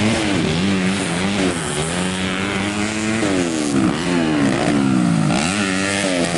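Racing motorcycle engines revving hard through the gears, the pitch climbing and dropping again and again as the bikes accelerate and shift.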